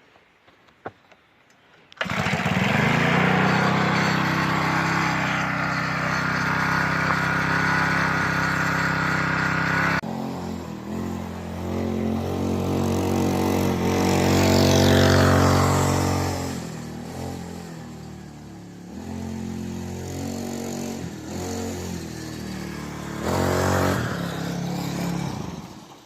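HotShot TXR mini bike's small engine running in several cut-together takes: steady at first, then its pitch rising and falling as the throttle is worked. It gets a short burst of revs near the end.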